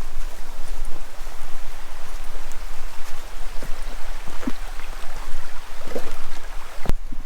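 Creek water rushing steadily, with a few faint knocks; the sound drops out briefly near the end.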